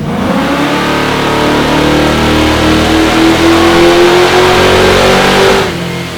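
427 cubic-inch LSX V8 of a 1968 Camaro making a wide-open-throttle pull on a chassis dyno. The engine note climbs steadily in pitch for about five and a half seconds, then the throttle closes and the sound drops away sharply.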